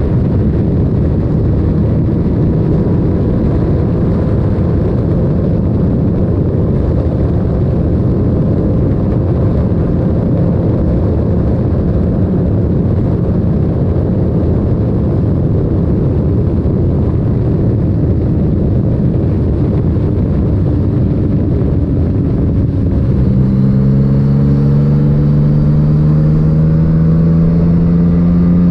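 Yamaha MT-09's three-cylinder engine through an Akrapovic titanium exhaust, heard on the move under a dense rush of wind noise. About 23 seconds in, the engine note comes through clearly and rises slowly in pitch as the bike picks up revs.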